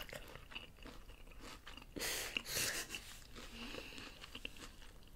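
Close-up mouth sounds of chewing and crunching crisp fried fast food, a scatter of short crunches, with a louder breathy stretch about two seconds in.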